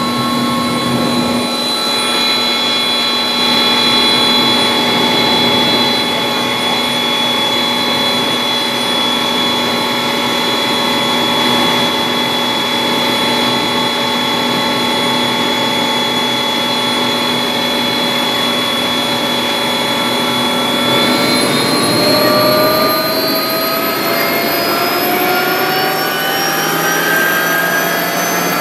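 Bell 407 helicopter's Rolls-Royce 250 turboshaft engine and rotor running with a steady whine of several tones. About twenty seconds in, the whine starts rising in pitch as the engine speeds up.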